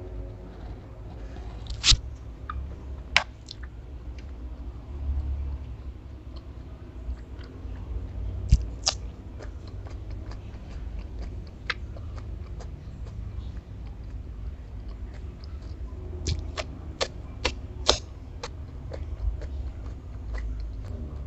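Close-miked chewing and biting of food, first dry stir-fried crab roe and then raw cucumber. Sharp clicks and crunches are scattered throughout, thickest in a run late on, over a steady low hum.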